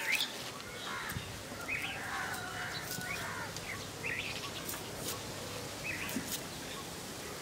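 Small birds chirping, short high calls repeating several times a second over a steady outdoor background, with a few faint sharp clicks.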